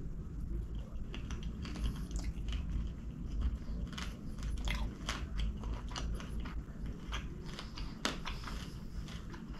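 Close-miked chewing and biting of devilled chicken: irregular crunchy, wet mouth clicks, busier in the second half, with one sharp crack about eight seconds in.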